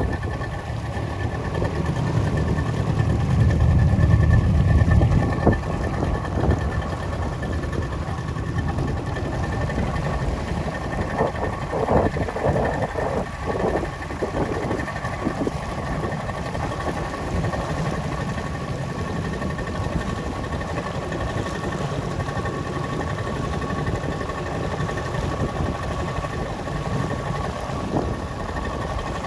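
Boat engine running steadily underway: a low rumble with a steady high whine over it. The rumble swells louder a few seconds in.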